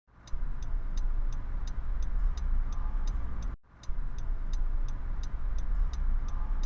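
Steady low rumble of a moving vehicle with a light, even ticking about three times a second. The sound drops out briefly about three and a half seconds in, then carries on as before.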